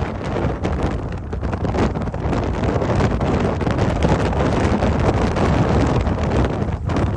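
Blizzard wind blowing hard and buffeting the microphone in uneven gusts, with a deep rumble underneath.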